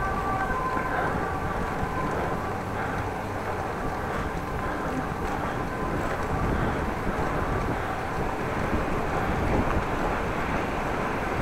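Wind blowing across the microphone of a bicycle-mounted camera while riding, a steady deep rushing noise.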